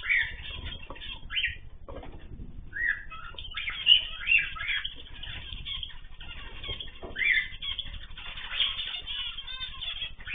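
Mixed cage birds (cockatiels, zebra finches, canaries, goldfinches) chirping and calling in many short, overlapping calls. A few louder calls stand out at about 4 and 7 seconds in.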